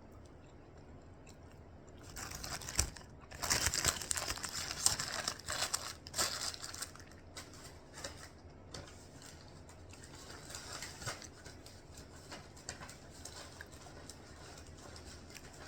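Close crackling and crinkling as a crispy chicken sandwich is handled and bitten into, loudest for a few seconds from about two seconds in, then lighter crackles.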